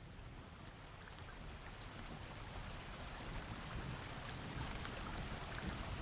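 Steady rushing, water-like noise fading in and growing gradually louder, with a low rumble underneath and faint scattered ticks.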